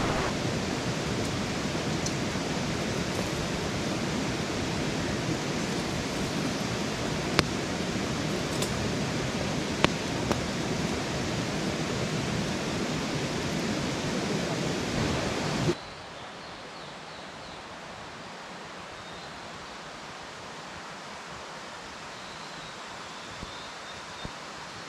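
Steady rush of running water with a few sharp clicks. About sixteen seconds in it cuts off abruptly to a quieter, softer rush, with a few faint high chirps near the end.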